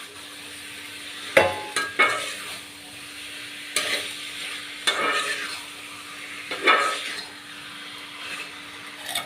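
Chicken frying in spiced masala in a pan, sizzling steadily while a spatula stirs it, scraping and knocking against the pan about half a dozen times at irregular intervals.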